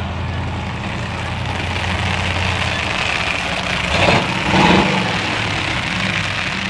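Car engines idling with a steady low rumble, and a brief louder surge about four seconds in.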